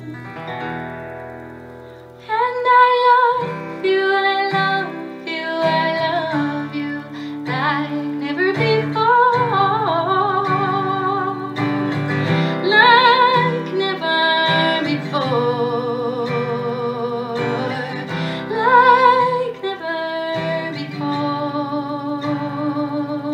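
Live song: a woman singing sustained notes with vibrato over an acoustic guitar accompaniment. The voice comes in about two seconds in, after a fading note.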